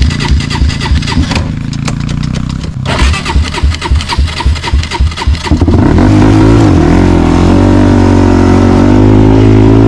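Off-road vehicle engine chugging in slow, even pulses with a short break, then from just past halfway running smoothly at a steady, higher note.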